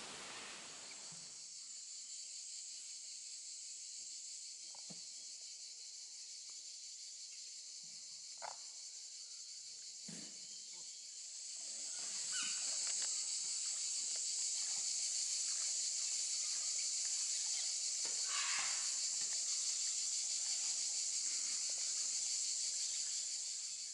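A steady high-pitched hiss that swells louder about halfway through and eases off near the end, with a few faint short taps and splashes.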